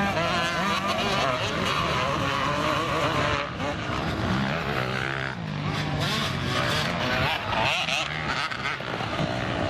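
Several motocross bikes' engines revving up and down as they race, the pitches overlapping and rising and falling again and again.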